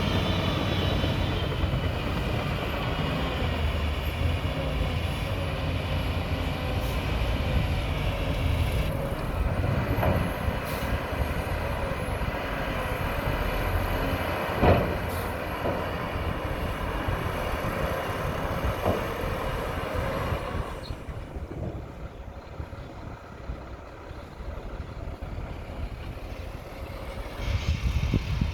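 Shantui bulldozer's diesel engine running with a heavy low rumble, with a few sharp metallic knocks, the loudest about halfway through. About three-quarters of the way in the engine sound drops away to a quieter level, then rises again near the end.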